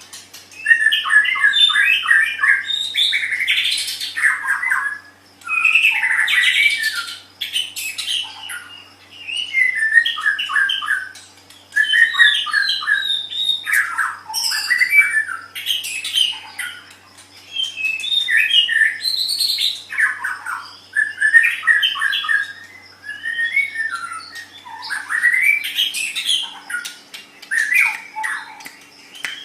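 White-rumped shama (murai batu) singing: loud, varied phrases of one to three seconds separated by short pauses, full of fast runs of repeated notes, quick rising and falling sweeps and harsher chattering notes.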